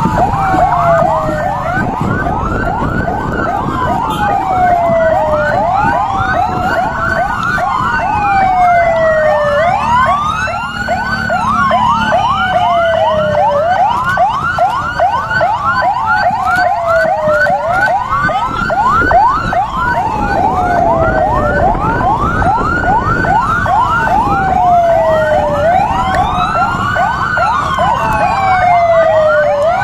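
Emergency-vehicle sirens sounding together: a wail that climbs quickly and falls slowly about every two and a half seconds, over a much faster yelp. A low rumble runs underneath.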